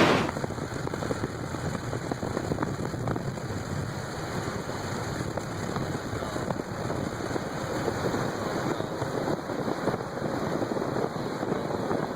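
Steady rushing storm noise, wind and rain on the microphone, with faint scattered ticks.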